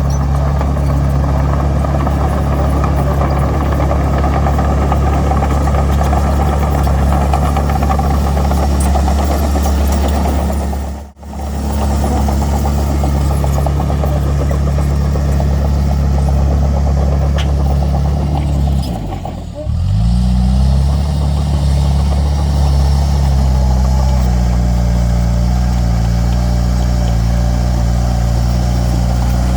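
Heavy diesel machinery engine running steadily, with a brief break about eleven seconds in. About two-thirds of the way through its revs dip and then climb back.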